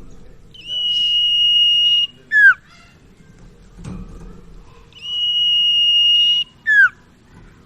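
Common iora (sirtu, cipoh) song: a long steady high whistle held for about a second and a half, then a short sharply falling note. The phrase is given twice.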